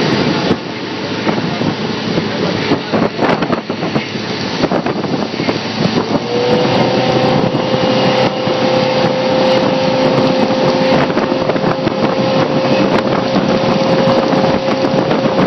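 Motorboat engine running under way, with heavy wind buffeting the microphone and water rushing. About six seconds in the engine note rises and then holds steady as the boat picks up speed.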